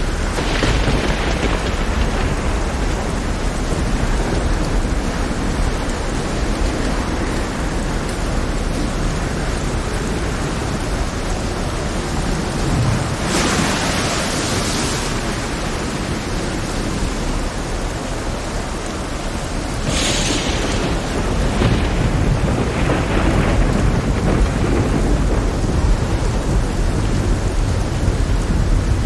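Heavy rain falling steadily under a deep, continuous rumble of thunder. Brief louder hissing surges come about 13 seconds in and again about 20 seconds in.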